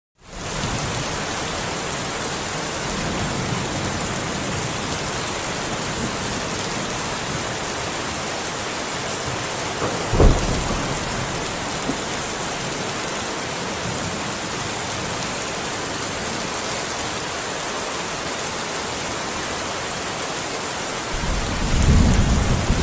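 Steady heavy rain falling, with thunder: a sharp thunderclap about ten seconds in and low rolling rumbles early on and again near the end.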